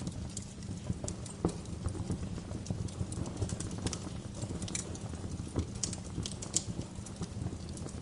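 Bonfire burning, with irregular sharp crackles and pops from the logs over a steady low rumble of the flames.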